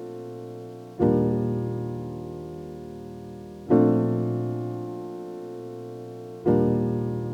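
Slow, soft piano music: sustained chords struck about every two and three-quarter seconds, each left to ring and fade away.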